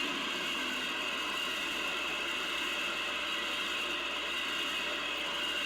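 Amtrak Vermonter passenger train running past on the rails: a steady, loud clatter of wheels on track with a high ringing tone over it. It starts abruptly.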